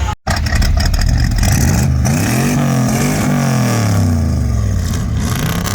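Car engine revving, its pitch climbing and then falling back as it is let off.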